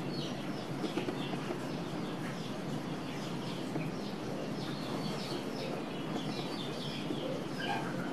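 Birds chirping, with short high calls scattered throughout, over steady low background noise.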